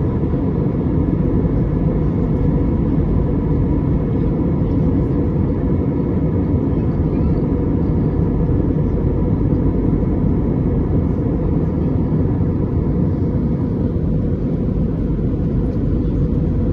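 Steady low rumble of a vehicle in motion, heard from inside, with a faint steady high hum over it.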